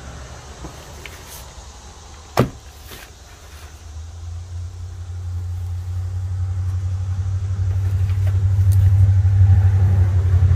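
Low rumble of a motor vehicle's engine growing steadily louder from about four seconds in, as it comes closer. A single sharp knock about two seconds in.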